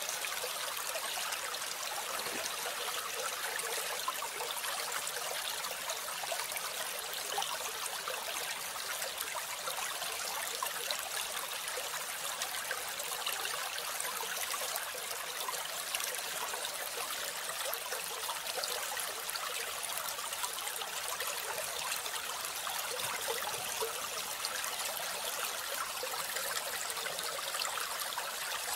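Steady rush of running water, like a stream, with no clear birdsong standing out above it.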